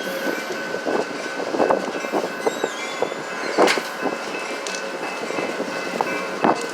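Excursion train cars rolling past, their wheels clattering in irregular clicks and knocks over rail joints and switches, with a faint steady high whine underneath.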